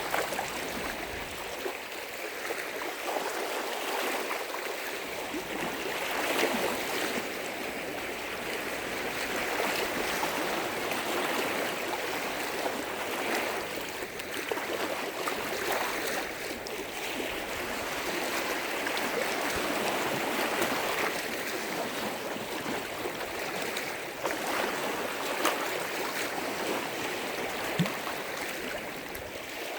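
Lake waves breaking and washing on the shore, the water noise swelling and easing every few seconds, with brief sharper splashes.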